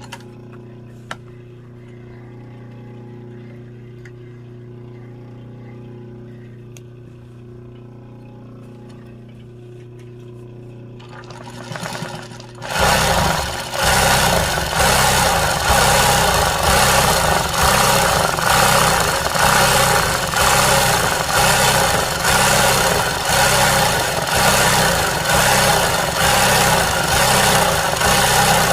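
Sewing machine stitching embroidery: a steady motor hum with a few light clicks, then about twelve seconds in the machine starts sewing fast and loud, surging and easing in a regular rhythm.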